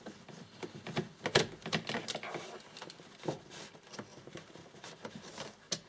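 Torx T20 screws being undone from a car's instrument cluster visor: irregular light clicks and taps of the screwdriver on the screws and dashboard plastic, one sharper click about a second and a half in and another near the end.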